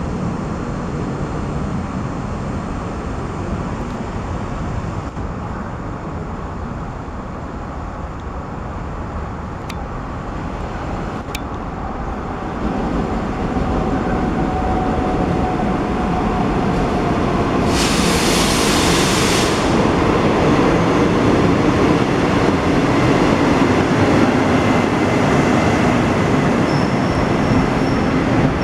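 Taiwan Railway passenger train rolling in past the platform, its running and wheel noise growing louder from about halfway through. A short hiss comes about two-thirds of the way in, and faint high wheel squeal sounds near the end.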